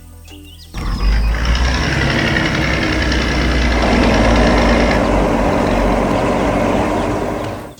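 Heavy vehicle engine running loud with a deep rumble. It starts suddenly about a second in and fades out near the end.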